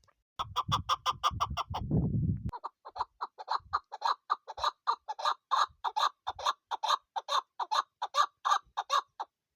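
Female chukar partridge calling: a fast run of sharp clucking notes for about two seconds over a low rumble, then a steady series of clucks at about three a second that stops shortly before the end.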